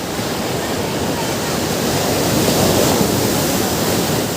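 Ocean surf on a beach: a wave swells, breaks loudest about two and a half seconds in, and washes back down near the end.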